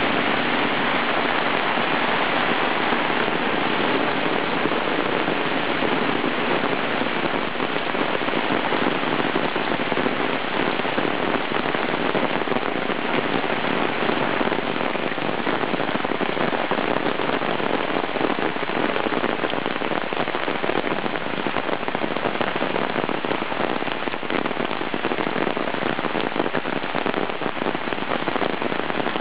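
Rain falling steadily, an even continuous hiss of rain on surfaces.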